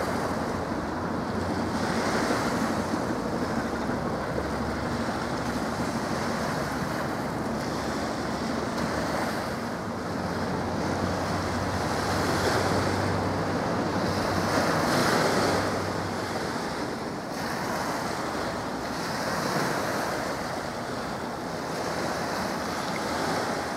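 Wind buffeting the camcorder microphone in gusts that swell and ease every few seconds, with a faint steady low hum underneath for much of the time.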